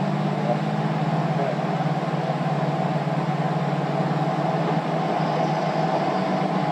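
A vehicle running: a steady low engine hum with even road noise and no change in pace.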